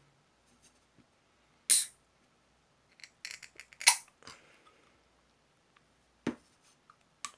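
A can of canned coffee being handled and opened: a sharp crack with a short hiss about two seconds in, then a run of small clicks and a second loud snap, and a dull knock of the can near the end.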